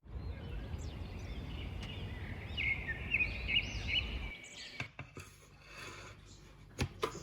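Steady low background rumble with a bird chirping a quick run of short notes about halfway through; the rumble then cuts off to a quieter stretch broken by a few sharp clicks.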